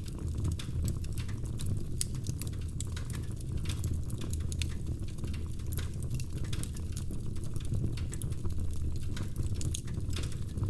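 Wood fire crackling in a fireplace: frequent irregular sharp snaps and pops over a low, steady rumble of the flames.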